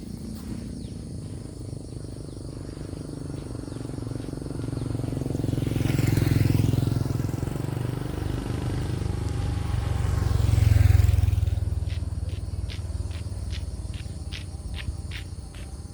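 Two motor vehicles passing one after the other, each swelling and fading, the second louder, with a low engine rumble throughout. A row of short, evenly spaced ticks follows near the end.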